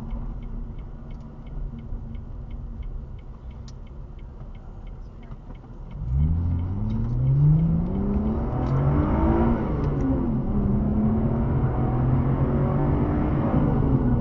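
Sports car engine heard from inside the cabin, running quietly at low revs with a light ticking about three times a second, then about six seconds in opening up hard, its pitch climbing, dipping once and then pulling on steadily at higher revs.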